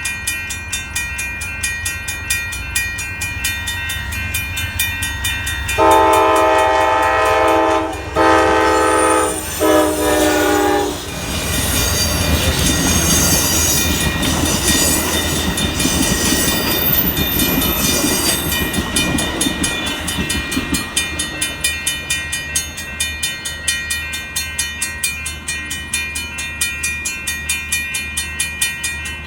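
Amtrak passenger train at a grade crossing. Its locomotive horn gives three chord-like blasts about six seconds in, the first the longest, and then the train passes with a rumble and clatter of wheels on rails for about ten seconds. A steady, rhythmic ringing, about two strikes a second, runs underneath before and after the pass, typical of a crossing warning bell.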